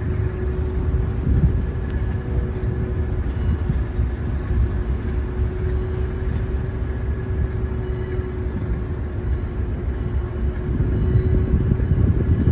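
Diesel train running at the platform: a steady low rumble with a constant hum above it.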